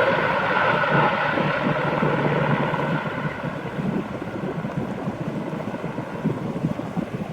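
UH-60 Black Hawk helicopter's twin turboshaft engines and rotors running, the whine steadily fading as the helicopter flies away, with wind buffeting the microphone.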